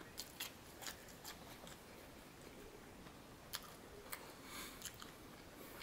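Faint chewing of a mouthful of fried food, heard as scattered soft, wet mouth clicks.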